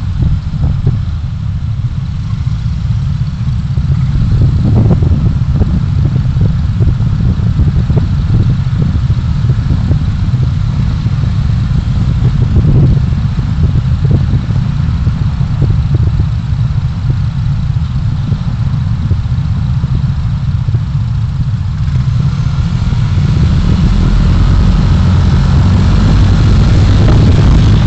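Car on the move in city traffic: a steady low rumble of road and engine noise that swells louder over the last few seconds.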